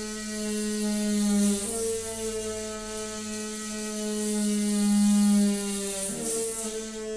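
Noisy water pipe humming with a steady droning tone and overtones over a hiss of rushing water. The tone shifts pitch with a brief chattering stutter about a second and a half in, and again around six seconds in.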